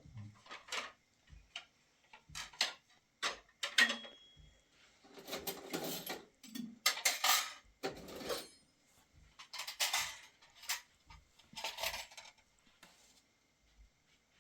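Irregular clatter of household objects being handled: a string of sharp knocks and clinks with a few short scraping or rustling bursts, like dishes and utensils being moved about.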